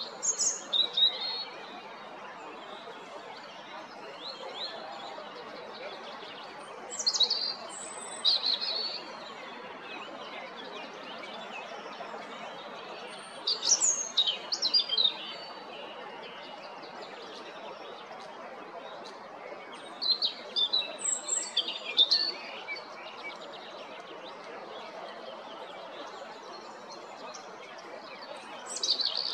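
European robin singing: short, high, quick twittering phrases of about one to two seconds, separated by pauses of five or six seconds, over steady background noise. Four phrases are heard, and a fifth begins right at the end.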